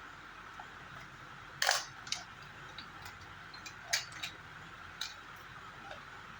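A few sharp clicks and light knocks of small hard objects being handled, the loudest about one and a half seconds in, over a steady background hiss.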